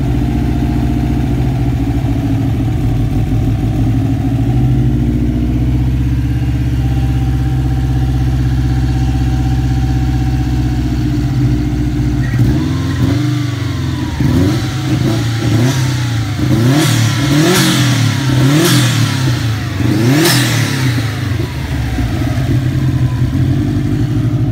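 Subaru 2-litre turbocharged flat-four engine running on a test stand, out of the car. It idles steadily for about twelve seconds, then the throttle is blipped repeatedly, the pitch rising and falling about once a second, before it drops back to idle near the end.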